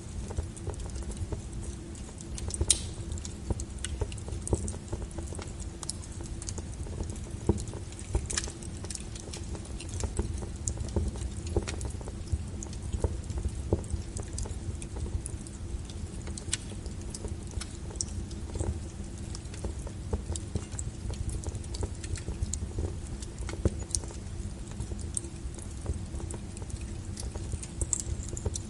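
Wood fire crackling: irregular sharp pops and snaps from burning logs, a few louder than the rest, over a low steady rumble of the flames.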